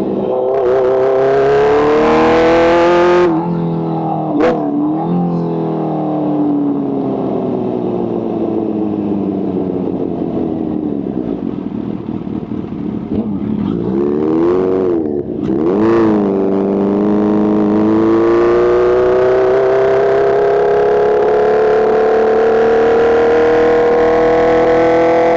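Kawasaki H2's supercharged inline-four engine revving under load: it climbs, changes gear sharply about three seconds in, winds down for several seconds, blips up and down a couple of times around the middle, then pulls in one long steady rise in pitch.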